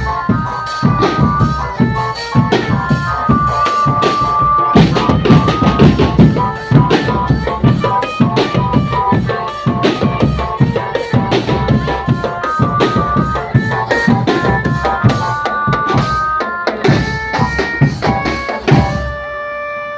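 A marching drum band playing: fast snare and bass drum beats under a bright, stepping melody. Near the end the drums drop out, leaving a held note.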